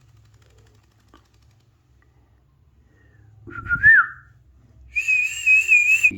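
Alexandrine parakeet whistling: a short rising-and-falling whistle about three and a half seconds in, then a longer wavering whistle from about five seconds in.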